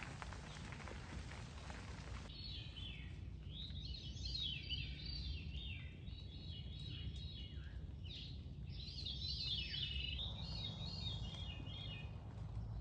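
Songbirds singing, a run of quick rising and falling high chirps starting about two seconds in, over a low steady rumble.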